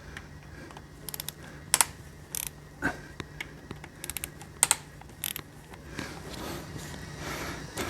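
Hand tools working the screws of a CVT transmission valve body: scattered sharp metallic clicks and short bursts of ratcheting, bunched between about one and five and a half seconds in, over a faint steady hum.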